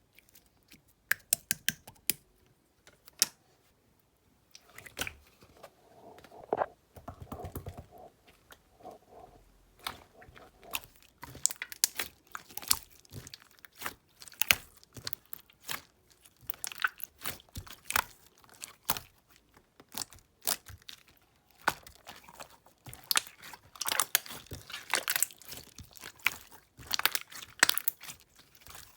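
Clear jelly-textured slime being squished and poked by hand, making irregular sticky clicks, pops and crackles. A few scattered clicks at first, then a dense run of them that is busiest in the second half.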